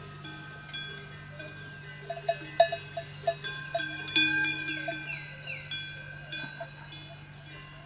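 Livestock bells clanking irregularly, the strikes coming thickest between about two and five seconds in.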